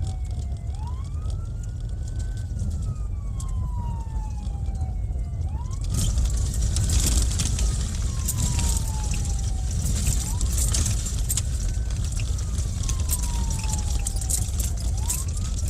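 Police siren on its wail setting, each cycle rising quickly and then falling slowly, repeating about every four to five seconds, over a steady low rumble. A crackling hiss grows louder about six seconds in.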